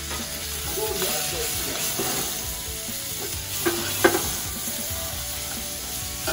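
Pork and garlic chives sizzling in oil in a frying pan, stirred with long cooking chopsticks, with a couple of sharp taps of the chopsticks against the pan a little past halfway.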